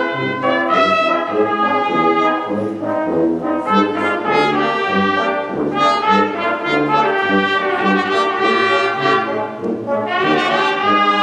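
Wind band playing, brass to the fore: a brisk passage of chords that change every fraction of a second.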